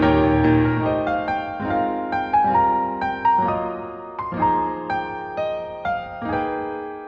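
Solo piano. A loud, full chord is held for about the first second, then a quieter passage of single notes and chords is struck about twice a second, each ringing and fading.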